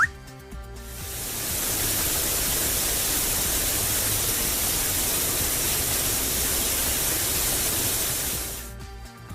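A steady rushing hiss, a cartoon sound effect, fades in about a second in and fades out near the end, over soft background music.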